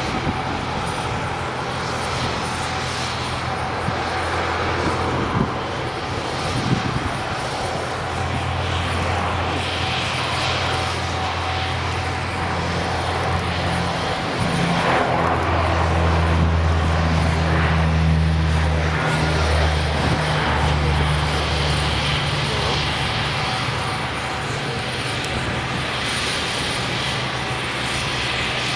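Twin turboprop engines of an ATR 72-202 running: a steady propeller drone made of low, even tones. It grows louder and fuller through the middle and eases off again near the end.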